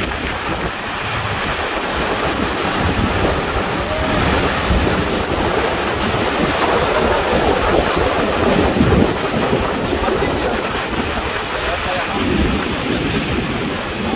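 Heavy rain pouring down on the river and boat in a storm, a loud steady rush, with the wind gusting on the microphone in uneven low rumbles.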